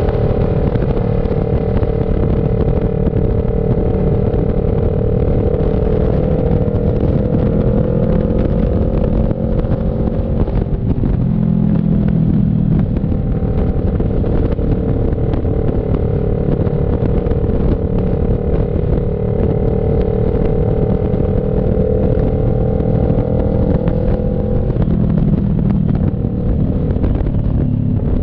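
CF Moto NK400 parallel-twin engine running at a steady cruising pitch while the bike is ridden, over wind and road noise. The engine note dips briefly about eleven seconds in and changes again near the end.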